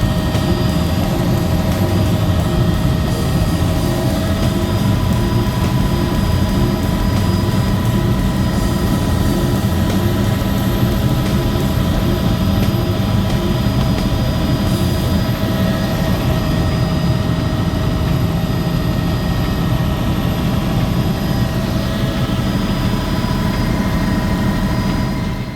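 Tour helicopter in flight: a loud, steady drone of engine and rotor with a constant whine over it. It cuts off suddenly at the very end.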